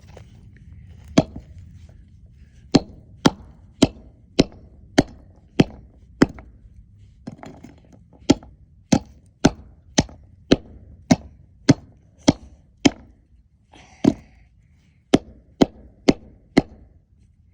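Hard blows striking a bird figurine over and over, some twenty sharp single impacts about two a second, with a short pause partway through. The figurine is not breaking.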